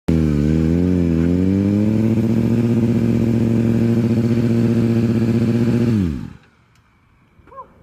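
Motorcycle engine held at steady high revs, wavering slightly at first, then dropping in pitch and cutting off about six seconds in.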